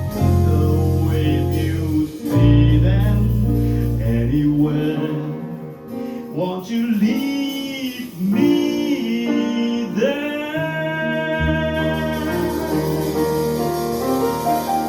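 Live jazz performance: a male vocalist singing over piano and double bass, with long held low bass notes in the first few seconds and the voice gliding between notes in the middle.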